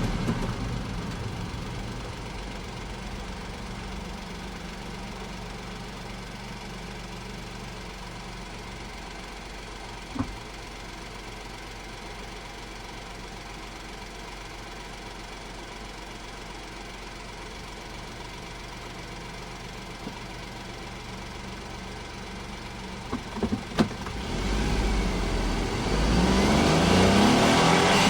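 Honda S660's small turbocharged three-cylinder engine settling from a run down to a steady idle, with a click about ten seconds in and a few clicks later. Near the end it revs up, the pitch climbing and the sound getting much louder.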